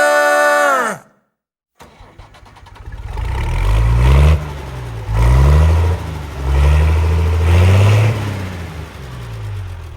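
A song's last held note cuts off about a second in. After a short gap, an engine runs, revving up and falling back several times.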